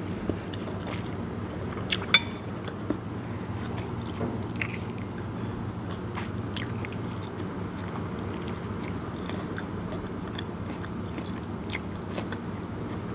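Close-miked chewing and biting on crunchy pounded star gooseberry (mayom) salad, with scattered sharp crunches, the loudest about two seconds in, over a steady low hum.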